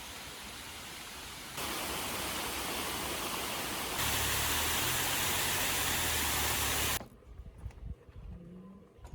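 Steady rain hiss. It gets louder in two sudden steps and cuts off abruptly about seven seconds in, leaving faint scattered ticks.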